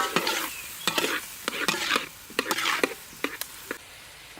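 Stir-frying in a pan: a cooking utensil knocks and scrapes against the pan about ten times over a sizzle, then stops a little before the end, leaving a steady sizzle.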